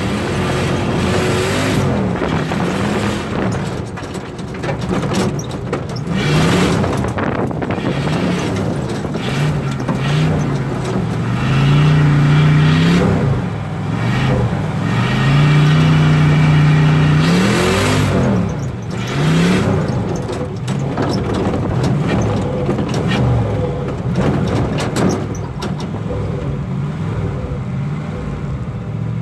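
Turbocharged small-block Chevy V8 revving hard under load, its pitch rising and falling again and again, with two long, loud held pulls about twelve and sixteen seconds in. Short bursts of rushing noise cut across it a few times.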